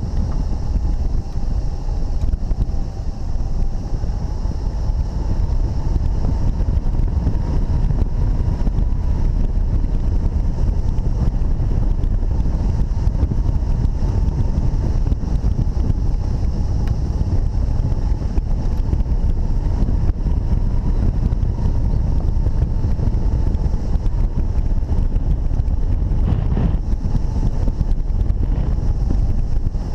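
Airflow buffeting the microphone during a hang-glider flight: a loud, steady, low rushing rumble. A faint thin tone holds steady above it.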